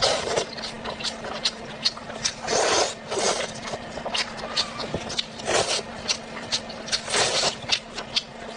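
Close-up chewing and crunching of food: irregular sharp clicks and short wet bursts every second or so, over a faint steady hum.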